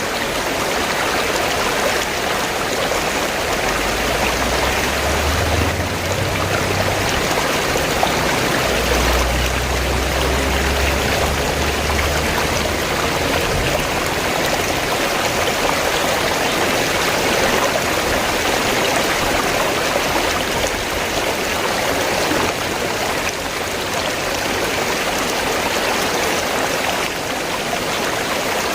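River water rushing steadily over rocks, with a low rumble underneath from about four seconds in until about thirteen seconds in.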